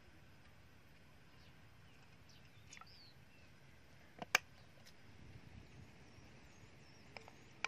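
Faint outdoor background with a few short bird chirps, a sharp click about four seconds in, and light clicks near the end.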